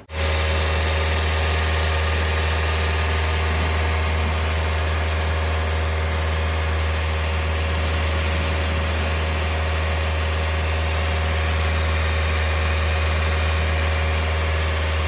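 Toyota Vios four-cylinder petrol engine idling steadily, with a strong, deep, even hum.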